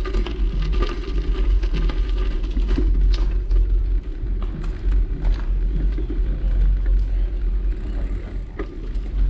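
Wind buffeting the microphone of a moving bicycle, with the steady rumble of the ride and scattered clicks and rattles from the bike.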